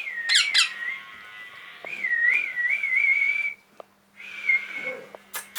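Young pet parrot whistling: two quick sharp chirps at the start, then a whistle held around one pitch that wavers up and down, breaking off briefly about four seconds in before a shorter second whistle. A few clicks near the end.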